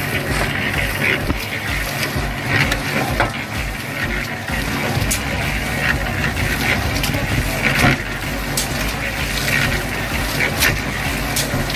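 Small battery-powered DC motor of a toy concrete mixer running steadily, turning the plastic drum with a pulsing hum and irregular rattling clicks, while a scoop scrapes through dry cement powder.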